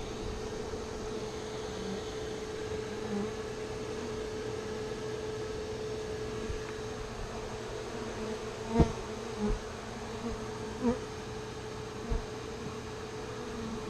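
Feral honeybee colony buzzing steadily from the opened hive, with a few short knocks in the second half.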